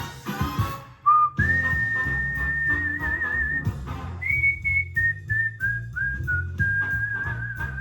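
Music with a beat breaks off about a second in, then a whistled tune plays over a bass backing: a short low note, a long held high note that wavers near its end, then a run of shorter notes stepping down, the last one held and wavering.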